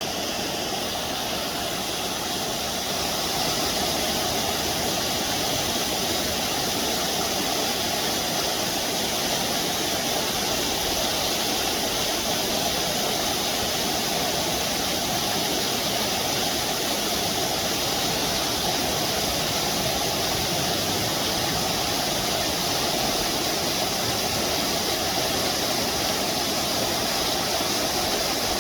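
Waterfall rushing: a steady, unbroken roar of falling water that grows a little louder about three seconds in.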